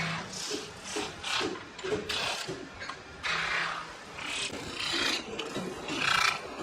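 Repeated rasping, scraping strokes on aluminum, about two or three a second and uneven, as in hand finishing of kettle parts. A low steady machine hum comes in briefly a little past the middle.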